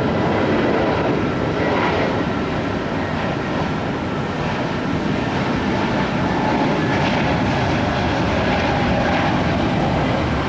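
Jet airliner engines running, a loud steady noise with faint high whining tones.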